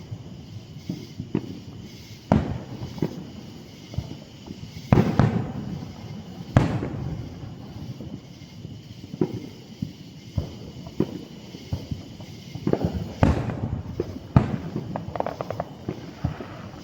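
Aerial fireworks display: shells bursting in sharp booms, each with an echoing tail, five big ones among smaller pops, and a rapid crackling of crackle-effect shells near the end.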